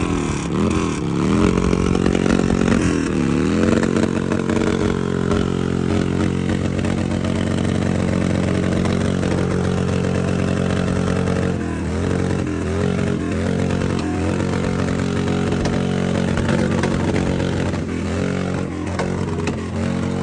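Harley-Davidson motorcycle engine running steadily, its revs briefly dipping and rising again several times.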